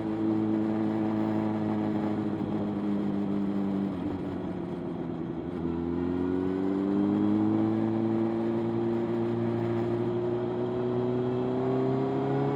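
Motorcycle engine running under way, holding a steady pitch, then easing off briefly about a third of the way in. It then pulls again, its pitch climbing slowly through the second half.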